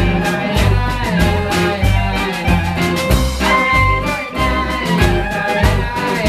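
Live band of accordion, clarinet, double bass and drums playing an instrumental passage: a steady beat of bass notes and drum hits under a held melody line.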